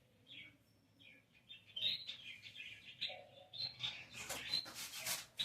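Small birds chirping in short, repeated calls. About four seconds in, quick rubbing strokes of scrubbing or wiping start.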